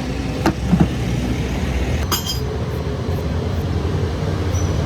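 Steady low mechanical rumble, with two short knocks near the start and a metallic clink about two seconds in.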